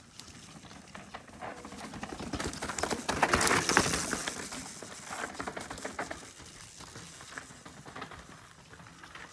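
Mountain bike tyres crunching and crackling over loose dirt and gravel. The sound grows louder to a peak about three to four seconds in, then fades away.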